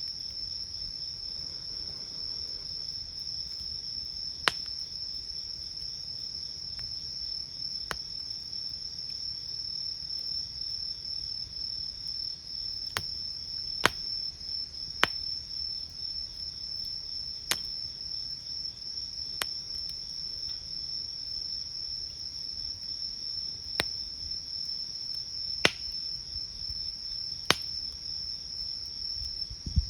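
Crickets trilling steadily and high-pitched at night, over a wood campfire that gives a sharp pop or crack every few seconds, about nine in all.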